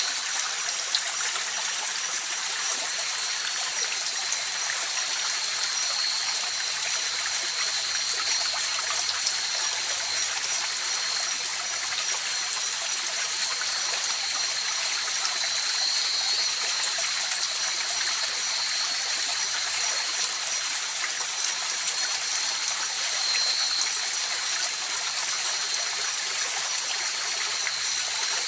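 A river or mountain stream running steadily, a continuous rushing and trickling of water. Two steady high-pitched tones sit over the water noise throughout.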